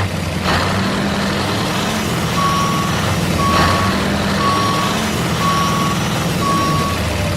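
A vehicle's reversing alarm beeping about once a second over a steady engine hum, with a brief hiss midway.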